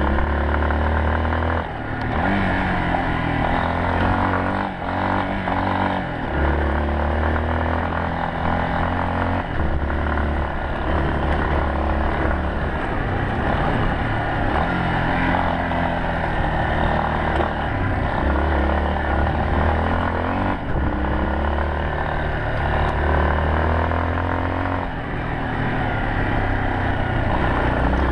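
Yamaha Serow 250's air-cooled single-cylinder four-stroke engine running under way, its pitch rising and falling again and again as the throttle is opened and closed.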